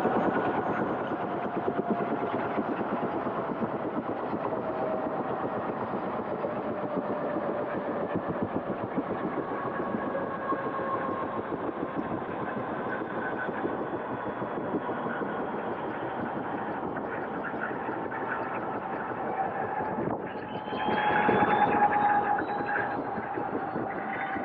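Helicopter in flight: steady rapid rotor chop with an engine whine that slowly falls in pitch. About twenty seconds in the sound dips briefly, then grows louder.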